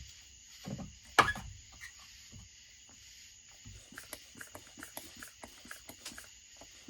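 Bench work on a chainsaw during an air-leak test: one sharp knock about a second in, then scattered light clicks and taps of parts and tools being handled. A steady high chirring runs underneath.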